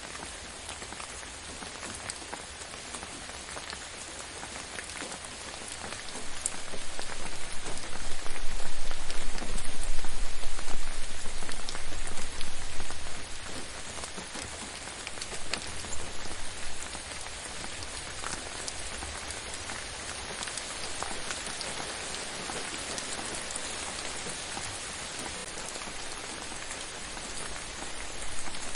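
Steady rain falling on a surface, a dense patter of drops. For several seconds near the middle it swells much louder with a deep rumble underneath, then settles back.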